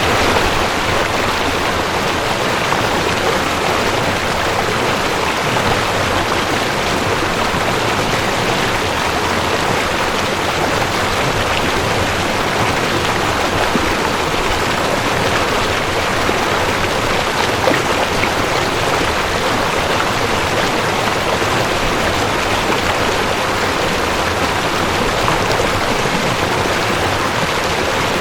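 Mountain stream rushing over rocks: a steady, even rush of water with no breaks.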